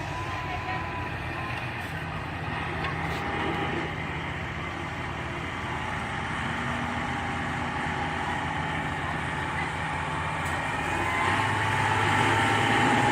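Heavy truck engine running steadily under load, with a whine that climbs slightly and grows louder near the end.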